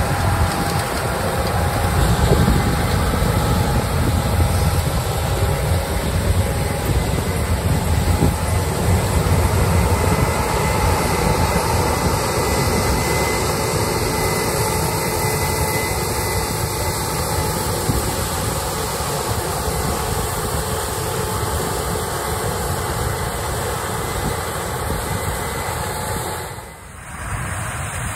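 Harvesting machinery running steadily: dense engine and machine noise with a low rumble and a faint steady whine, briefly dipping near the end.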